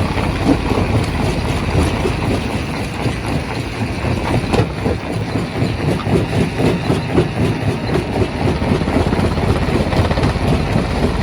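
Quarry primary rock crusher running: a steady heavy-machinery drone with a dense, irregular clatter of knocks from stone being broken.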